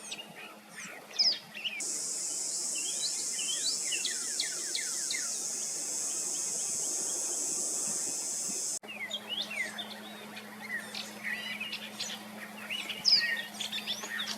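Several songbirds chirping and calling in quick, overlapping falling notes. A steady high hiss runs under them from about two seconds in and cuts off sharply at about nine seconds.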